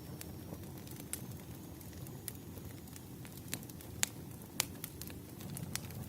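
Wood fire burning, with a steady low rumble and irregular sharp crackles and pops, the loudest two about four seconds in and half a second later.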